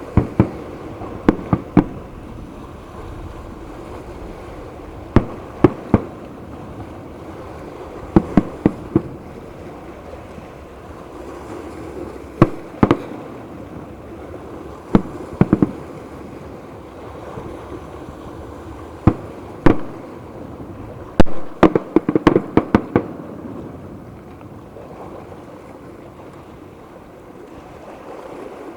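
Aerial fireworks bursting: sharp single bangs and short runs of two or three come every few seconds, with a quick crackling flurry of bangs about three-quarters of the way through, over a steady background hiss. The bangs thin out near the end.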